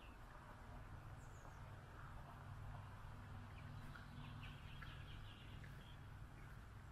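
Faint, scattered chirps of small birds, several short notes in a cluster through the middle, over a steady low background hum.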